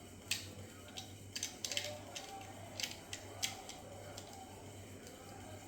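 Plastic Lego pieces clicking and clattering as they are handled and fitted together: a string of small sharp clicks, several in quick succession in the middle.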